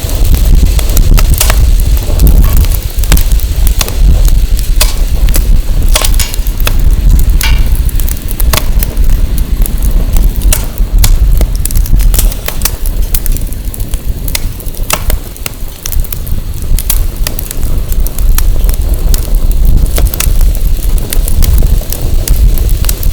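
Firewood burning in a bonfire, crackling with frequent sharp pops and snaps, over a steady low rumble of wind buffeting the microphone.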